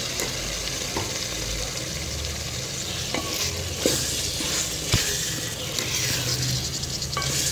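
Freshly added chopped green bell peppers sizzling in hot oil and fried masala in a metal pot, stirred with a wooden spoon that knocks against the pot a few times.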